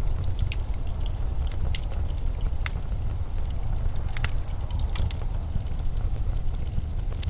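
Blizzard wind as a steady, deep rumble with a hiss over it, dotted with irregular sharp crackles and ticks.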